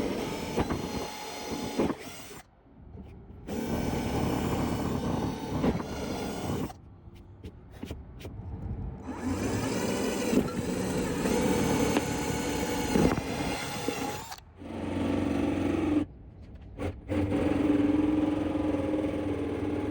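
Power drill boring holes into a plastic esky (cooler), its motor running in several separate stretches broken by sudden cuts.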